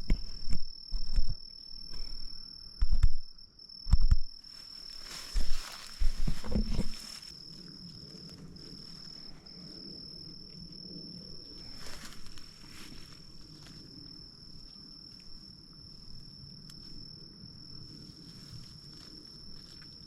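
A steady, high-pitched insect drone runs throughout. In the first seven seconds several loud low thumps and rustles of close handling and brush stir over it as blackberries are picked from the bramble, and after that a faint low rumble sits underneath.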